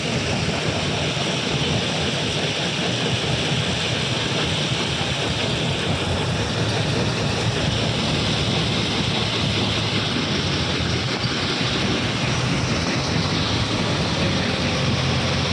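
Heavy machinery running steadily: a loud, continuous mechanical rumble with a low hum underneath.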